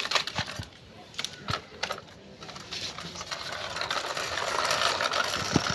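Light clicks and clatter of toys being handled as biscuits are taken off a toy truck, followed by a steady rattling noise that grows louder over the second half.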